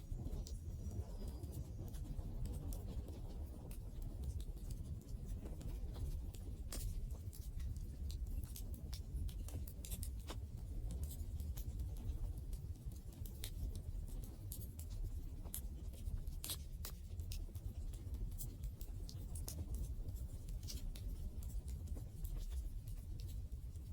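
Wood campfire burning, a low steady rumble of flames with irregular sharp crackles and pops from the burning wood.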